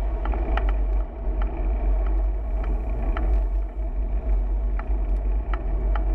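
Wind buffeting the microphone during a bicycle ride: a steady low rumble, with scattered light clicks or rattles from the bike and road.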